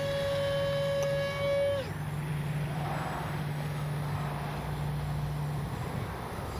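HobbyZone AeroScout RC plane's electric motor and pusher propeller whining at a steady pitch, then throttled off about two seconds in, the pitch dropping away. After that, only a rushing background noise is left while the plane glides.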